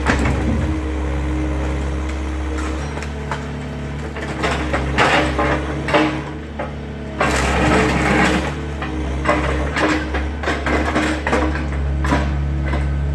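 Excavator engine running steadily while wood cracks and crunches in bursts as the garage is torn down, the loudest bursts about five and seven to eight seconds in.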